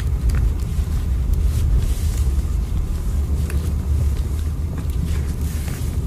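Train running: a steady, deep rumble with scattered light clicks and rattles.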